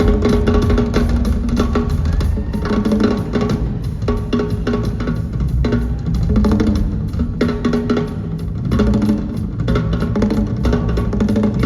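Live drum solo on drum kit: a dense stream of fast strokes that runs without a break.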